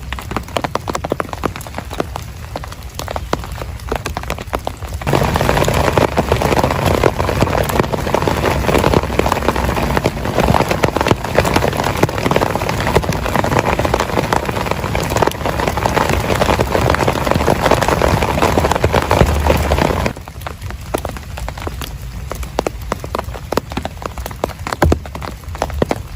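Heavy rain falling, with many separate drops striking. About five seconds in it turns abruptly into a louder, denser downpour that lasts some fifteen seconds, then drops back just as suddenly to the lighter drops.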